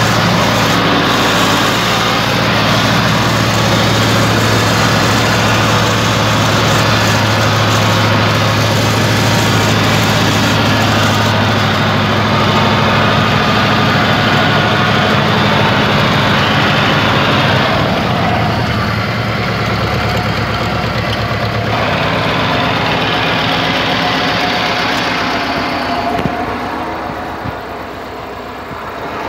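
Air-cooled two-cylinder Deutz F2L912 diesel engine of a homemade tractor running steadily. Its tone shifts about two-thirds of the way in, and the sound fades somewhat near the end.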